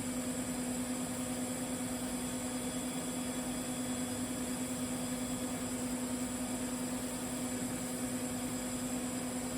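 TIG welding arc burning steadily on pipe, a constant hum with a high whine and hiss over it.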